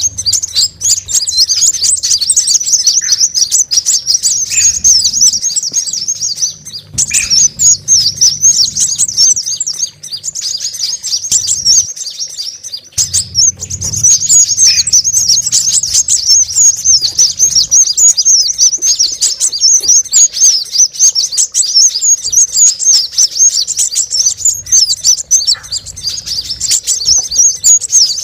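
Dense, unbroken high-pitched chattering and twittering of many small birds, sunbirds, calling excitedly over one another: a bird-lure recording of a noisy flock, with a faint low hum underneath.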